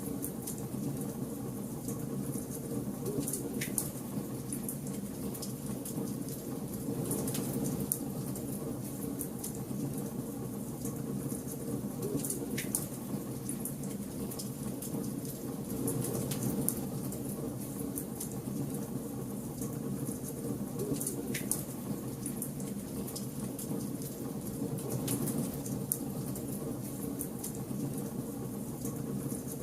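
Bonfire burning: a steady low rush of flame with scattered sharp crackles and pops.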